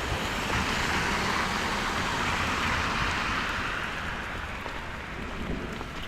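A car passing on a wet street: the hiss of its tyres on the wet road swells within the first second, holds, then fades over the next few seconds, with rain falling underneath.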